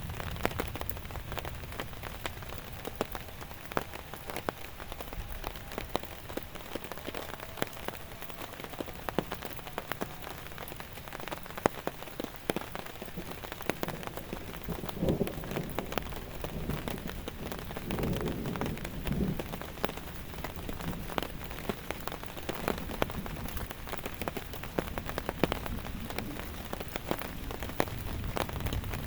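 Steady rain, with many separate heavy drops striking a surface in sharp clicks.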